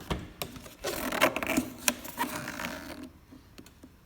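Clicks, knocks and scraping from handling the C6 Corvette's air filter assembly with its new filter and screen, dying down near the end.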